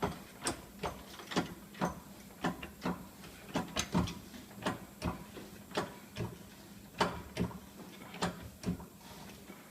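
Car jack being worked to lift a car, with a short mechanical click or clunk about twice a second.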